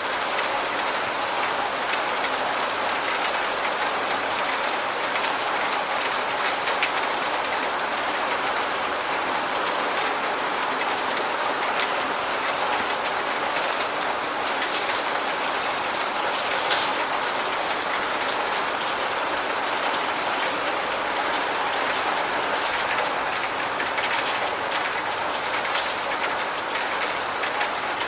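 Steady, heavy rain falling: an even hiss with scattered sharper drop ticks.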